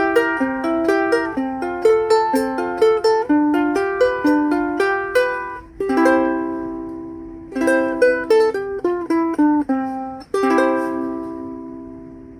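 Lanikai MA-P pineapple soprano ukulele with a mahogany laminate body, played acoustically: a brisk run of strummed chords and melody notes, then a few separate strums, the last chord left ringing and slowly fading.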